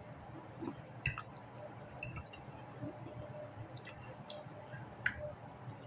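A person chewing food quietly, with soft wet mouth sounds and a few sharp clicks, the loudest about a second in and about five seconds in.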